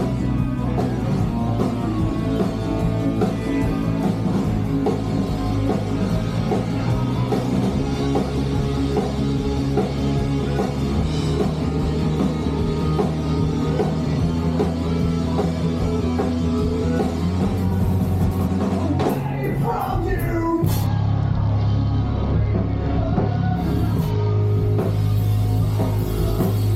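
Emo rock band playing live: electric guitars, bass and drum kit, with singing.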